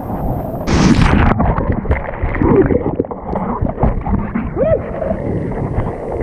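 Surf breaking on the beach with wind rumbling on the microphone; a loud rushing crash about a second in.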